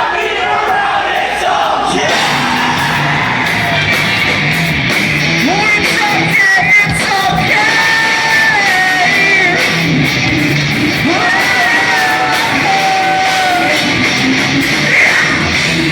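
Live post-hardcore rock band playing loudly, with clean sung vocals and yelled vocals over distorted guitars and drums, in a large echoing room.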